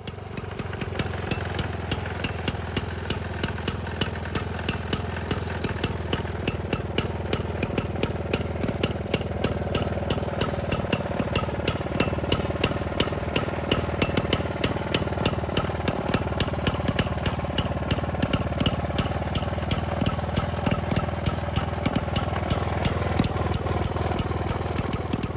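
The 1922 Neracar's 200cc single-cylinder engine running steadily, with a rapid regular ticking of its firing.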